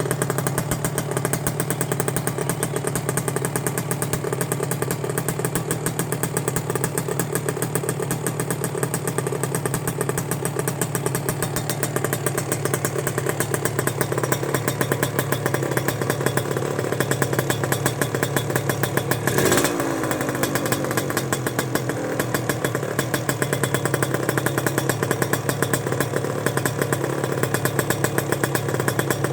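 2003 Suzuki Satria 120 two-stroke motorcycle engine idling steadily through an aftermarket Creampie Racing plug-and-play exhaust, with a rapid, even pulse and a brief louder moment about twenty seconds in.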